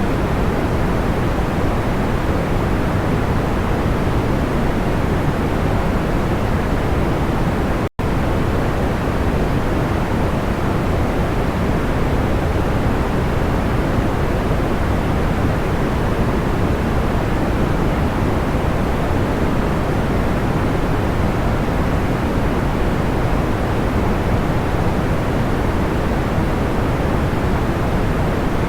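Steady, deep, even noise, a sleep-aid noise track, with no distinct crackles or pops. It cuts out for an instant about eight seconds in.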